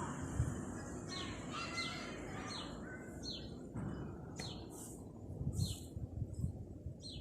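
A bird chirping: a series of short, high notes that each slide down in pitch, roughly one a second, over low background noise.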